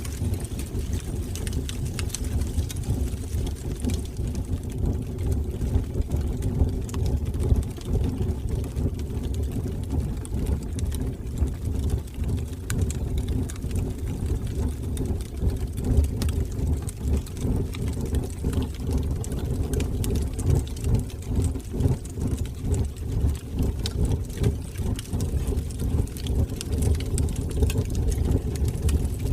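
Wood fire burning in a fireplace: a continuous low rumble of flames, with scattered small crackles and pops.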